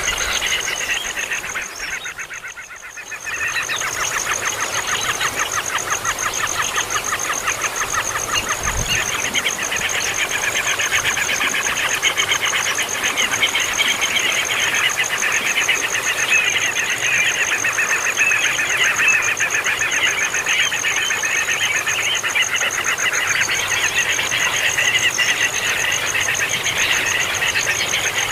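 Baby bird's begging calls: dense, rapid, incessant chirping that dips briefly about two seconds in and then carries on unbroken. A steady high-pitched pulsing trill runs underneath.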